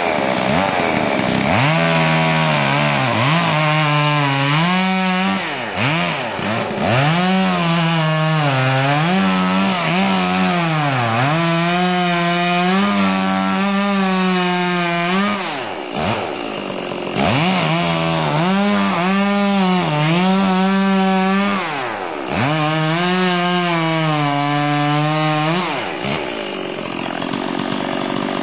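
Stihl 045 two-stroke chainsaw cutting into a large oak trunk. Its engine note sags under load and climbs back again and again, with a few brief dips where the cut eases.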